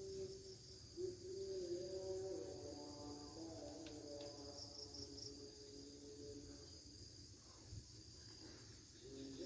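Faint, steady high-pitched chorus of insects such as crickets or cicadas, with fainter wavering lower tones coming and going.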